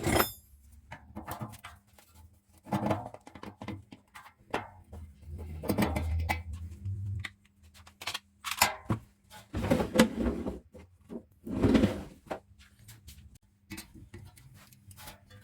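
Workshop handling noises from an old electric fan being worked on: a series of knocks, clicks and short scraping bursts, over a faint steady low hum.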